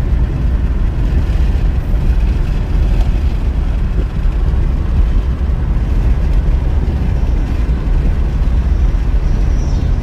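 2002 Honda Civic LX driving along, a steady low rumble of engine and road noise heard inside the cabin, with no clatter from the rebuilt automatic transmission.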